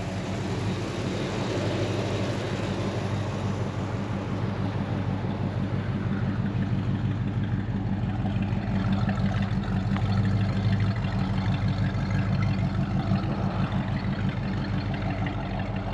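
AMC 390 V8 of a 1968 AMX idling steadily with an even, low rumble; the owner calls it a purr.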